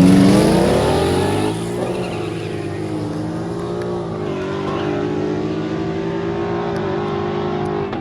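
Car engine revving: its pitch climbs over the first second or so while it fades somewhat, then it holds a steady higher note with small wavers.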